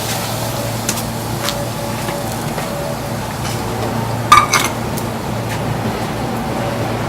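A beef block searing in an oiled Muurikka pan over a wood fire: a steady sizzle with a few sharp pops. About four seconds in comes a brief metallic clatter, the loudest sound, like a utensil against the pan. A faint low hum runs underneath.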